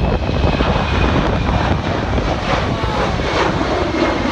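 Embraer E190 jet taxiing, its turbofan engines whining steadily at taxi power, under a heavy low rumble of wind buffeting the microphone.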